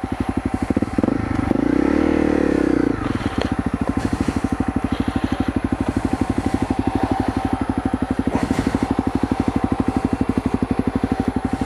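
Honda CRF250L's single-cylinder engine idling with a steady beat, revved briefly about two seconds in, then shut off at the end.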